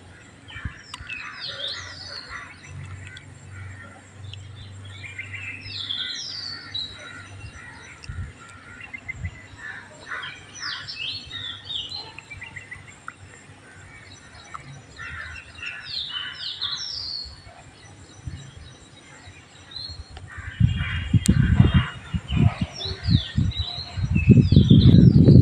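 Small birds chirping and calling outdoors, many short quick sweeping notes overlapping. Near the end a loud low rumble comes in gusts over them.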